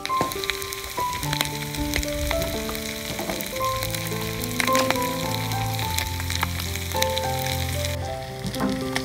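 Chopped eel and lemongrass sizzling in a large wok, with a few sharp knocks of the metal spatula against the pan. A gentle melody of held notes plays over it.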